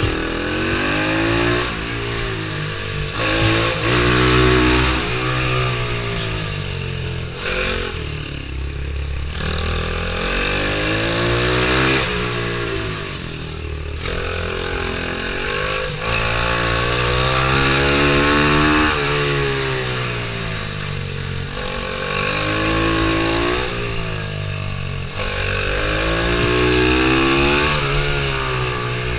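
Pit bike engine accelerating hard and backing off again and again. Its pitch climbs through each run, drops sharply when the throttle is closed, then climbs again.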